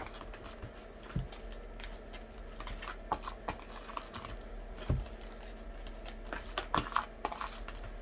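Irregular light clicks and knocks of small objects being handled and set down, a little busier near the end, over a faint steady low hum.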